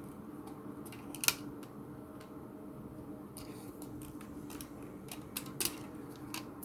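Rubber bands being pulled off a phone, giving a few sharp snaps and clicks, the loudest about a second in and several more near the end, over a faint steady hum.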